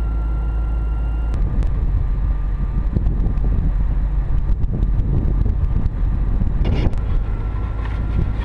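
Bronco off-roader's engine idling in a low, steady rumble, heard through its roof-mounted camera, with sharp clicks and rubbing from hands working the camera about a second and a half in and again near the end.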